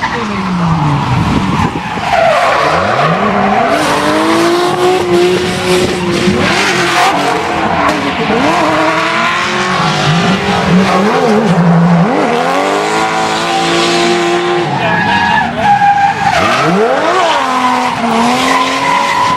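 Drift cars sliding: engines revving hard, their pitch rising and falling again and again with throttle changes, while the tyres squeal and skid continuously.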